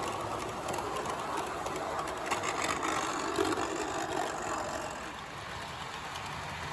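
HO scale model train, a Walthers F40PH locomotive pulling Superliner cars, running along the track with a steady whir and rumble of motor and wheels. A few faint clicks come about two to three seconds in.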